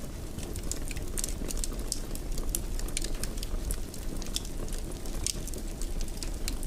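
Wood fire burning in a fireplace: a steady low rumble of flame with frequent irregular crackles and small pops.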